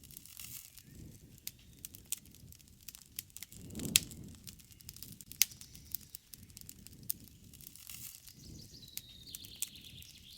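Wood campfire crackling with scattered sharp pops, the loudest about four seconds in, over a low soft rush of burning. Near the end a bird gives a faint falling whistle.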